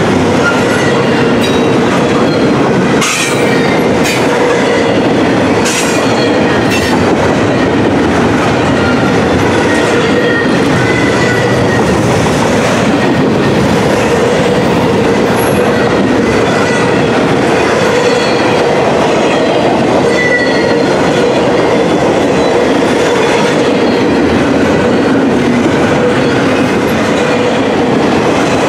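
Double-stack intermodal container cars rolling past: a loud, steady rush of steel wheels on rail with faint, wavering high wheel squeals. A few sharp clicks come about three to seven seconds in.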